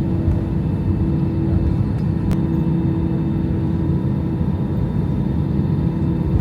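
Airbus A319 cabin noise while taxiing after landing: a steady rumble from the engines at idle and the wheels rolling, with a steady hum over it. A faint click about two seconds in.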